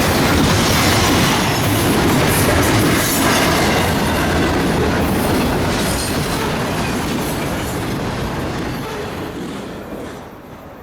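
Freight train's cars rolling past, the wheels clattering over rail joints, fading away over the last few seconds.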